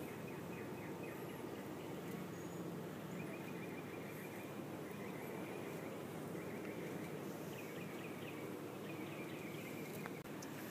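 Honeybees buzzing steadily around an opened hive, with faint high chirping in the background.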